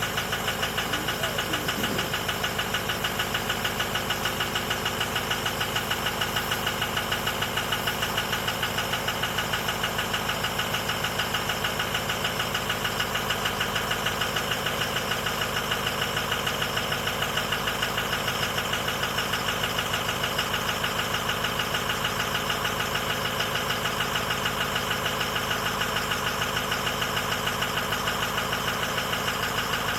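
Stock 2006 Ford F-250's 6.0 Powerstroke V8 turbo-diesel idling steadily with an even, rapid pulse, shortly after a cold start.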